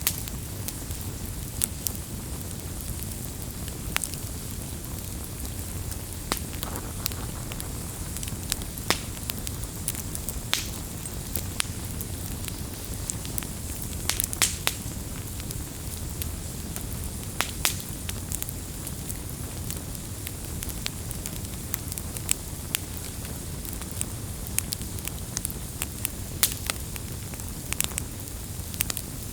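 Wood campfire burning: a steady low rumble of flames with irregular crackles and sharp pops from the burning wood.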